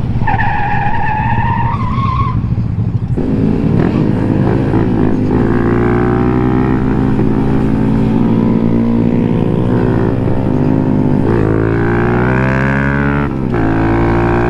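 Small single-cylinder Honda motorcycle engine running under way, its note shifting up and down with the throttle, with a brief dip about thirteen seconds in as a gear is changed. The engine's steady note comes in about three seconds in, after a noisier stretch with a short rising tone.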